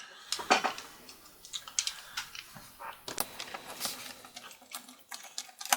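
Irregular light clicks and taps of a small screwdriver working at the screws of a laptop's plastic screen bezel.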